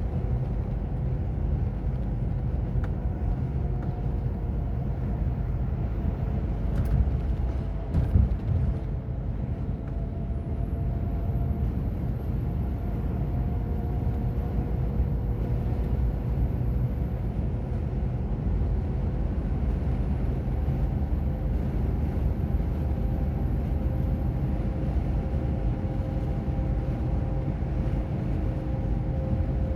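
Semi-truck's diesel engine running steadily under way, its pitch drifting slowly, over a constant low rumble of road noise. A brief knock comes about seven seconds in, and a louder thump about eight seconds in.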